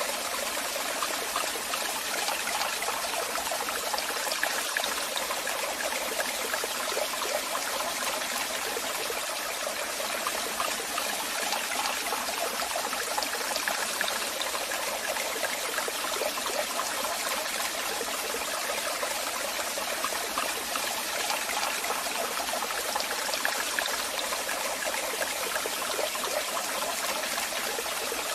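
Waterfall, falling water rushing steadily and evenly, without pause.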